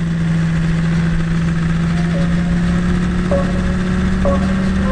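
Land Rover Discovery's V8 engine running steadily at low revs, a deep even hum with a rumble beneath it.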